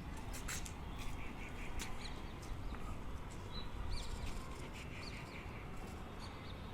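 Small birds chirping in short, high, scattered notes over a steady low background rumble, with a few sharp clicks.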